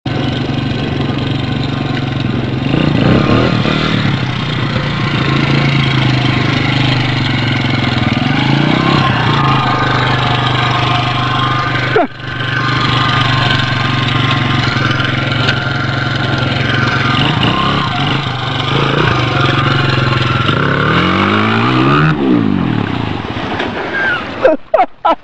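Dirt bike engine running at a steady speed, cut off briefly about twelve seconds in, then its pitch wavering up and down near the end.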